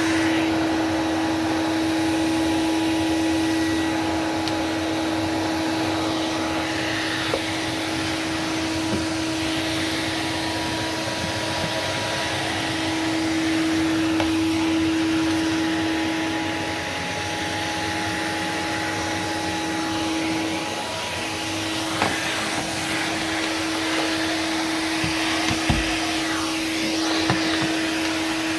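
Numatic NV250 vacuum cleaner running steadily while vacuuming: a constant motor whine over a rushing-air hiss. The pitch dips briefly twice in the second half, and there are a few light knocks near the end.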